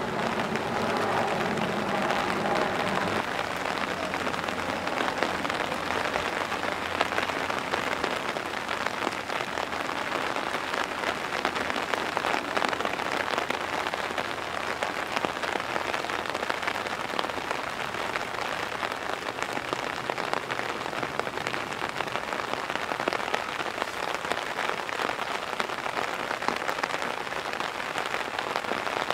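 Heavy rain pouring down, a steady dense patter of drops on hard surfaces.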